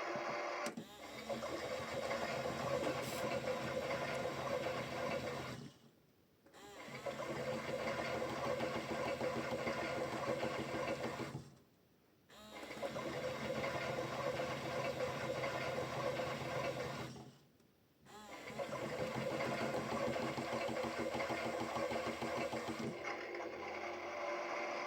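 Toy washing machine's small electric motor whirring as the drum turns, running in stretches of about five to six seconds and stopping three times for about a second before starting again.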